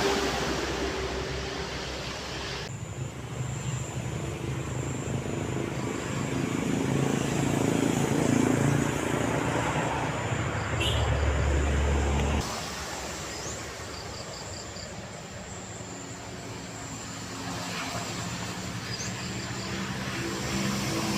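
Diesel locomotive engine running as a train approaches, a steady low hum with a throb. The sound changes abruptly twice, about three seconds in and again about twelve seconds in.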